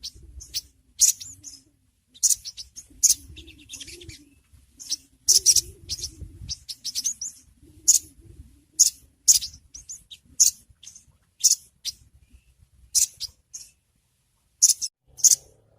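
Little spiderhunter (sogon) calling: sharp, high-pitched chirps repeated irregularly, singly and in quick clusters, about one or two a second.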